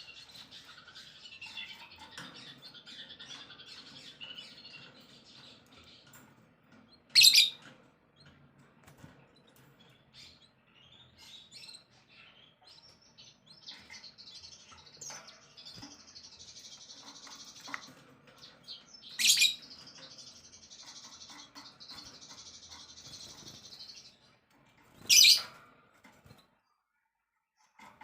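Songbirds chirping and twittering continuously, broken three times by a short, loud, harsh call or rustle that stands out above the rest.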